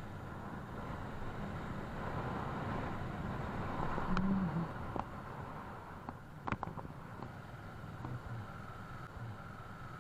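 Motorcycle on the move: steady engine and road noise, with a few sharp clicks about six and a half seconds in.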